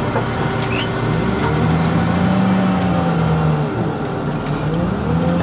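Engine of the heavy machine used to load cars into the crusher, running and revving up and down under load: its pitch rises about a second in, falls back near four seconds and rises again near the end.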